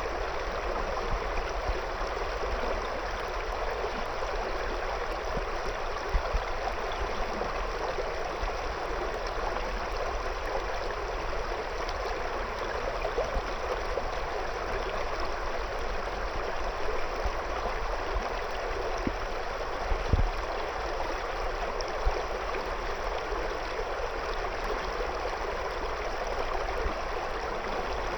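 A shallow river flowing over and around stones: a steady, even rush and babble of water, with a few brief low thumps now and then.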